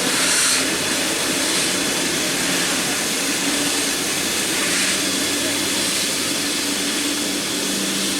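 Steady hiss of steam from a standing steam locomotive, with a faint low hum underneath and no change in level.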